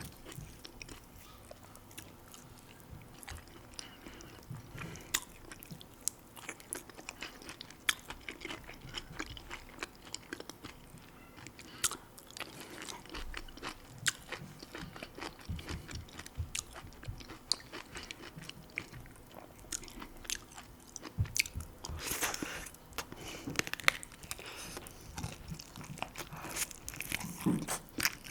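A person chewing and biting food close to the microphone: many short mouth clicks and crunches, growing louder and denser in a couple of stretches near the end.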